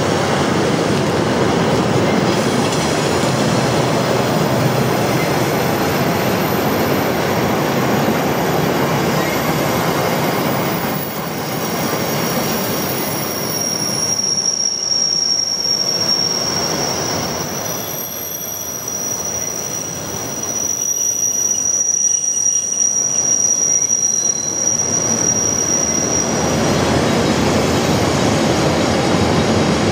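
Freight train of double-deck car-carrier wagons rolling past close by, steel wheels on rail making a continuous rumble. A steady high-pitched wheel squeal comes in a little before halfway and stops near the end.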